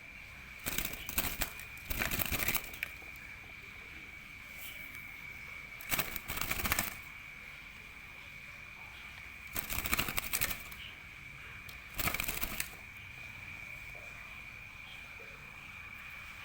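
A freshly trapped wild bird fluttering its wings in a cage, in five short flurries of about half a second to a second each, with pauses between them.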